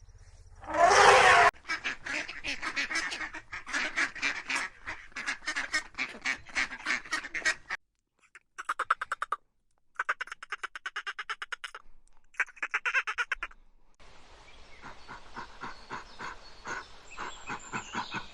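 Ducks quacking in fast runs of repeated calls, with a loud call about a second in. The quacking comes in several separate stretches, broken by short silent gaps.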